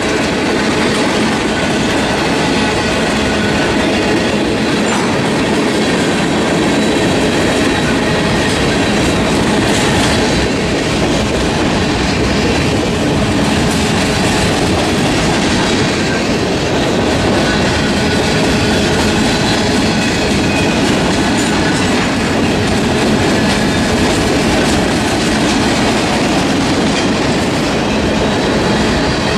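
Freight train of tank cars and covered hoppers rolling past close by: steady, loud noise of steel wheels running on the rails.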